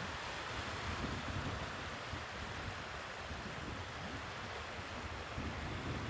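Sea waves washing steadily on the shore, with wind rumbling on the microphone.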